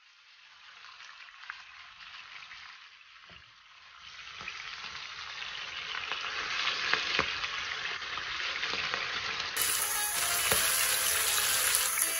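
Sturgeon pieces frying in hot oil in a pan: a steady sizzle that grows from faint to full over the first few seconds, with scattered sharp clicks of tongs against the pan as the pieces are turned.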